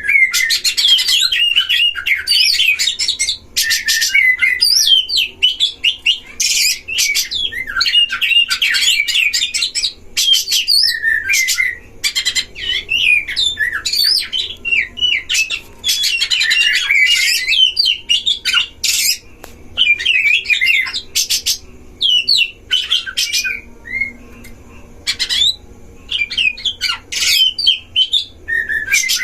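Oriental magpie-robins singing in a duel, rapid varied twittering phrases broken by repeated short harsh calls, with the birds agitated against each other.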